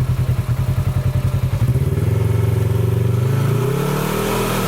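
Off-road vehicle engine running with a pulsing beat, then about two seconds in settling into a steadier, higher note that climbs further in pitch near the end as the revs rise.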